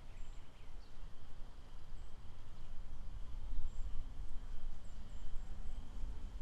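Outdoor nature ambience: a steady low rumble underneath, a faint continuous high insect drone, and a few brief, very high bird chirps scattered through.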